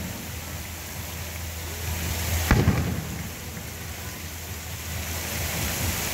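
Aerial fireworks shells bursting: one sharp boom about two and a half seconds in, followed closely by a second, smaller report, over a steady low rumble and hiss from the ongoing display.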